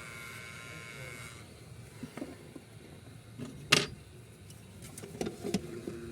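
Hot-air rework station blowing steadily with a fan whine, cutting off about a second and a half in. Then come a few sharp clicks and knocks, the loudest near the middle.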